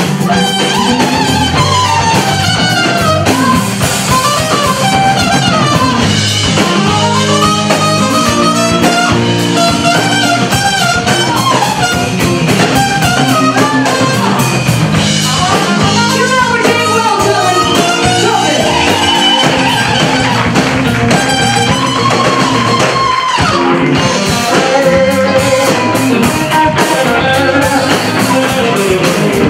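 Live blues band playing, with a guitar carrying bending lead lines over bass and drum kit.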